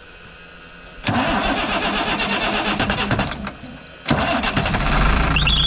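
The 1987 Ford L8000's turbo diesel being cranked and starting: it turns over, falters briefly, then catches and runs steadily about four seconds in. Near the end a warbling warning tone begins sounding.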